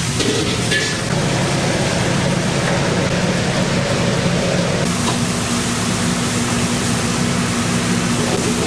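Steady loud roar of a restaurant kitchen's gas burners and ventilation, with a low hum throughout and a few light clinks near the start.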